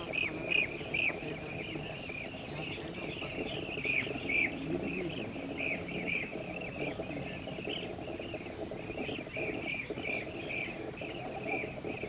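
Birds chirping: a steady run of short, high calls, several a second, over a low steady background hum.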